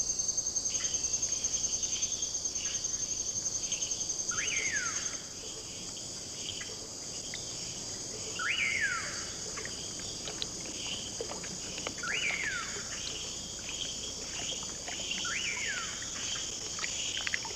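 Rainforest ambience: insects trill steadily in a high, finely pulsing chorus that is louder for the first five seconds. Over it, a falling whistled call repeats four times, every three to four seconds, among many short chirps.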